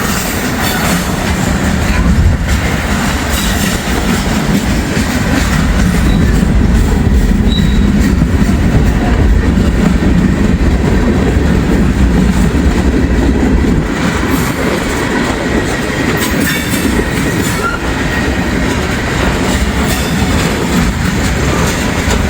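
Norfolk Southern freight train's cars rolling past at close range, steel wheels running over the rails in a steady, loud rumble, with gusty wind hitting the microphone.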